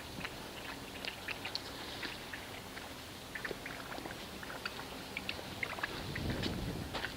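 Faint outdoor background with scattered short, high chirps or ticks, and a low rumble rising briefly about six seconds in.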